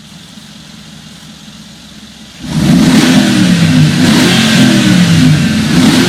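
Mercedes-Benz G550 V8 engine and exhaust: a quieter steady sound, then suddenly loud about two and a half seconds in, its low note rising and falling as the engine is revved.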